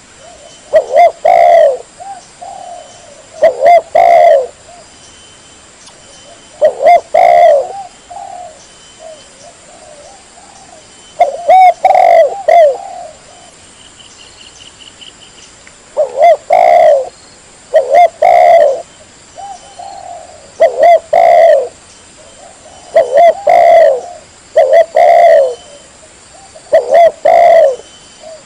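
Spotted dove (tekukur) cooing: loud, clear phrases of two or three low coos, repeated about every two to five seconds, used as a lure call for wild doves. A short faint high chirping trill comes about halfway through.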